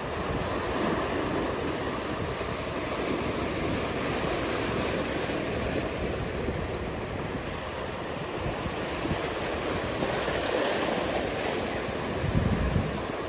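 Ocean surf breaking and washing in a steady rolling rush, with wind on the microphone. A short low rumble from a wind gust comes near the end.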